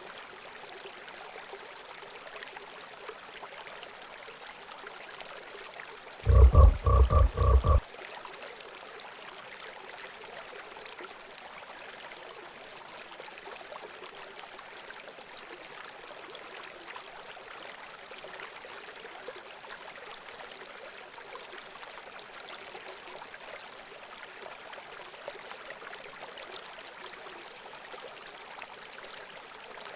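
Steady running water, with one loud frog croak about six seconds in: a quick run of about five pulses lasting about a second and a half.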